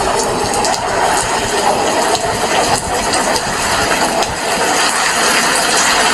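Heavy rain falling steadily, a dense even hiss with scattered sharper drop impacts throughout.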